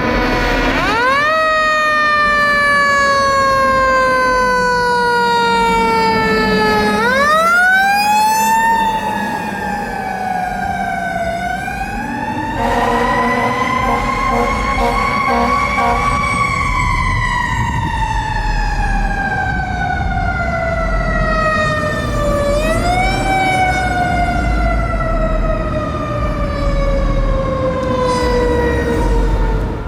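A Sutphen Monarch fire engine's mechanical siren, of the Federal Q type, winding up quickly and then coasting down slowly, four times over. A low engine rumble runs underneath.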